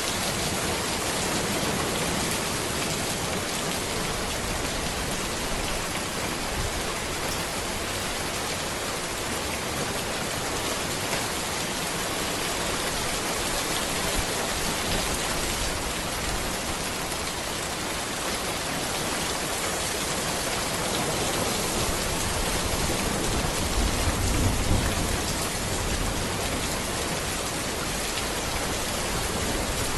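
Steady rain falling on a road and trees, an even, unbroken hiss. About three-quarters of the way through, a low rumble swells briefly under the rain.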